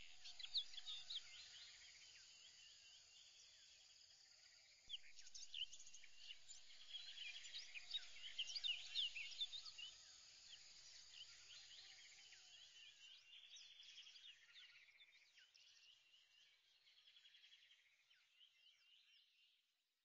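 Faint birdsong: many short chirps from several birds, busiest a few seconds in and fading away near the end.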